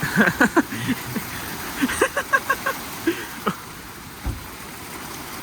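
Heavy rain falling steadily in a storm, a constant hiss, with some talking over it in the first half and a low thump a little past four seconds in.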